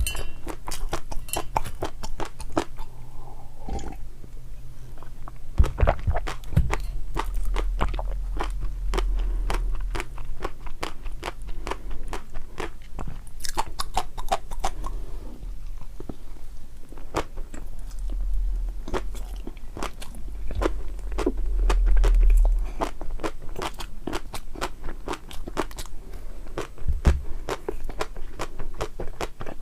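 Close-miked eating: a person crunching and chewing crisp food in rapid crackly bites, with a few low thuds and rumbles along the way.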